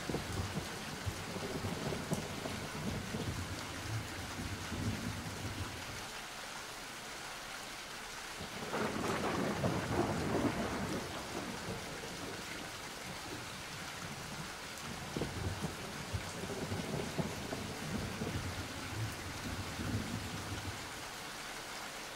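Steady rain with rolls of thunder; the loudest roll swells up about nine seconds in and fades over the next few seconds, and lower rumbles come and go around it.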